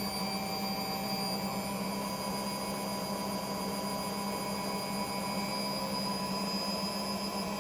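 A machine running steadily with an even hum, a strong low tone with a few faint higher whines over a noisy rush; typical of an electric motor or pump left running.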